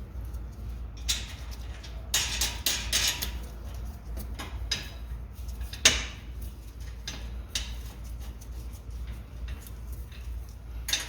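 Metal knocks, clanks and short rattles of a stainless exhaust pipe section being worked into place on its rubber hangers and flange, with one sharp knock about six seconds in. A steady low hum runs underneath.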